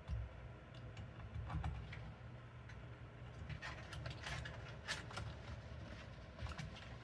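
Scattered light clicks and rustles of small cable connectors and wires being handled while fitting front-panel leads to a computer motherboard, with the clicks bunching up about halfway through, over a low steady hum.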